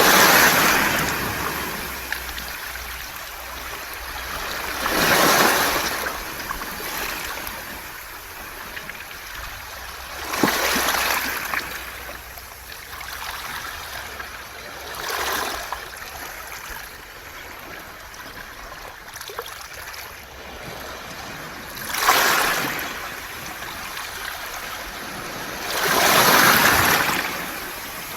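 Waves washing up a beach of smooth round pebbles and draining back through the stones, a surge about every five seconds over a steady wash.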